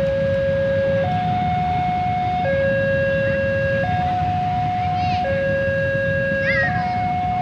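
Railway level-crossing warning alarm sounding, an electronic two-tone signal that swaps between a higher and a lower note about every 1.3 seconds, over a low steady rumble.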